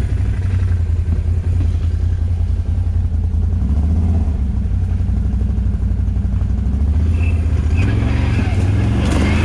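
ATV engine running steadily under way, most likely the Can-Am Outlander 1000 XMR's V-twin, with small shifts in engine speed and a few rattles near the end.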